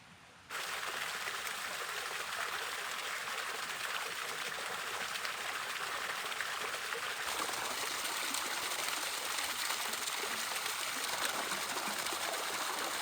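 Steady rushing water, starting suddenly about half a second in.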